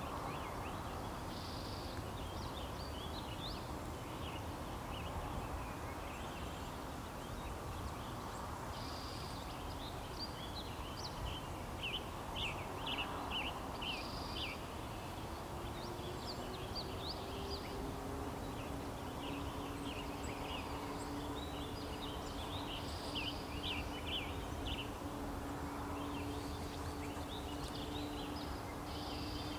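Small birds chirping in short, repeated runs of high notes over a steady outdoor hiss and low rumble. A faint steady drone comes in about halfway through and holds to the end.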